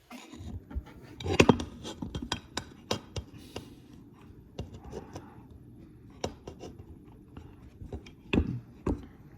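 Handling noise: irregular clicks, taps and knocks close to the microphone, the loudest about a second and a half in.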